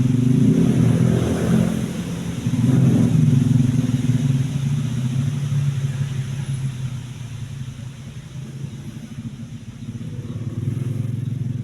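A motor vehicle engine running with a low, steady hum. It swells twice in the first few seconds, then settles lower and steadier.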